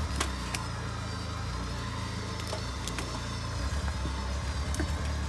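Suzuki Escudo's engine running at low revs, with a few sharp clicks and cracks over it.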